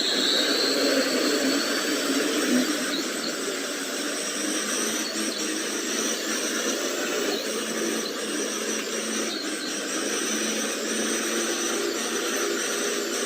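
Small electric motor and gearbox of a radio-controlled truck running steadily, with a high whine that dips slightly in pitch near the start.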